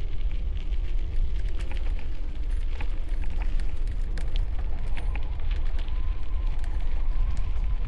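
Steady low rumble of strong wind buffeting a helmet-mounted camera microphone while cycling, with scattered small crackles and clicks over it.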